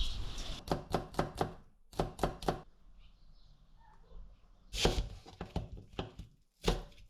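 Knife chopping on a cutting board in quick runs of sharp knocks, with a pause of about two seconds in the middle.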